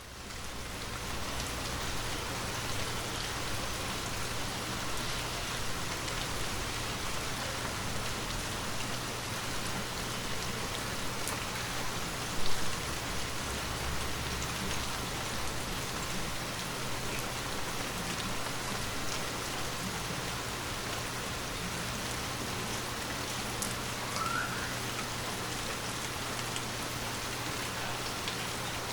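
Steady rain falling, a dense even patter that fades in over the first second or so. About twelve seconds in there is a single brief, louder thump.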